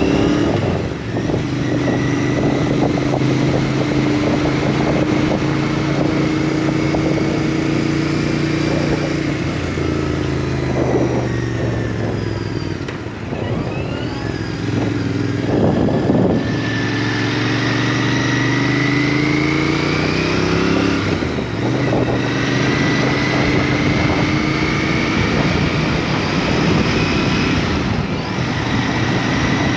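Motorcycle engine running on the road, with wind rush. Its note climbs steadily and drops back several times, about a second in, around ten and sixteen seconds, and again near twenty-one and twenty-eight seconds.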